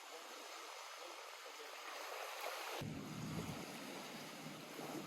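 Lake water lapping and washing steadily at the shore. About three seconds in, a low rumble joins under the water sound.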